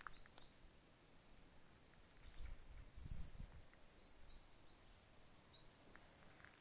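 Faint high chirps of a small bird, a few short calls scattered over near-quiet outdoor background, with a brief low rumble between about two and three and a half seconds in.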